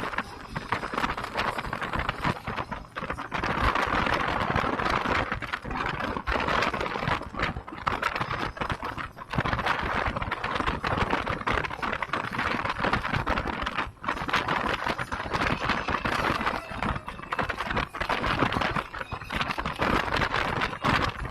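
Wind rushing and buffeting over the microphone on a moving motorcycle: a choppy, rushing noise that comes and goes, with road noise beneath.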